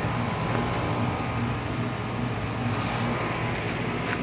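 Central air conditioner condensing units running: a steady low hum from the scroll compressors and condenser fans.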